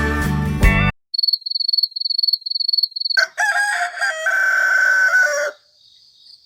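Guitar music stops about a second in. A high, even chirping pulses a few times a second for about two seconds, then a rooster crows once in a single long call of about two seconds.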